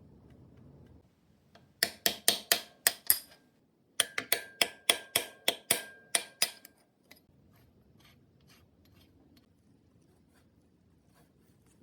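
Sharp metal-on-metal taps on bicycle bottom bracket parts: a quick run of about seven strikes, a short pause, then about ten more with a faint metallic ring beneath them.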